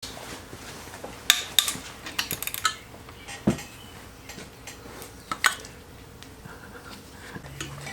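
Metal tools and engine parts clinking and knocking against each other in a string of sharp clanks, bunched about a second in, again a little past three seconds and around five seconds.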